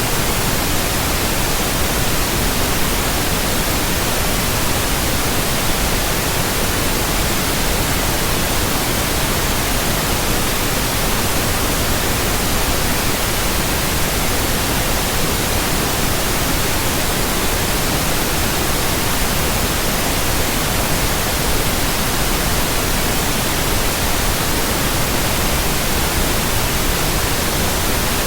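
Synthetic white noise: a steady, even hiss across the whole range of pitch, strongest in the highs, unchanging throughout.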